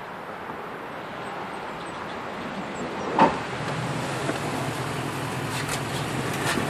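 Ford F-150's 5.4 L V8 with no muffler, its exhaust dumped behind the cab, coming closer and settling into a steady low idle, with a single sharp knock about three seconds in.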